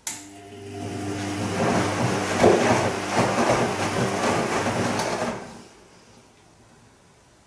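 Bosch Serie 2 Vario Perfect washing machine turning its drum in a gentle silk wash: a click, then the motor hum builds as the wet laundry and water churn for about five seconds, and it stops again.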